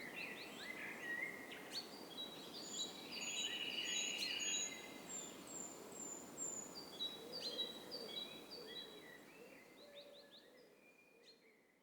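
Woodland birds singing: many short chirps, whistles and trills from several birds over a low background rumble, the whole fading out near the end.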